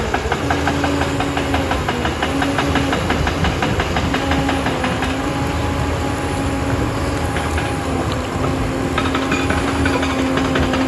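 Liebherr 746 crawler dozer at work: its diesel engine running under load with a rapid, continuous clanking of steel tracks and a steady whine that steps up and down in pitch several times.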